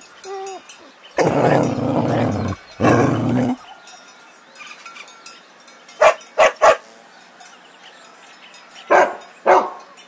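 Dog barking: three short barks in quick succession about six seconds in and two more near the end, after two longer, rougher sounds in the first few seconds.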